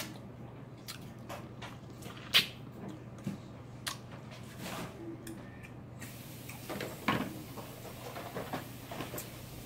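Close-up chewing and mouth sounds of someone eating crispy fried chicken: scattered short crunches and smacks, the sharpest about two and a half seconds in.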